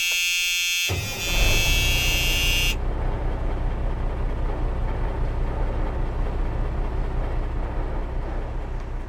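A truck-style horn blares steadily for nearly three seconds. About a second in, a low engine rumble starts and keeps running.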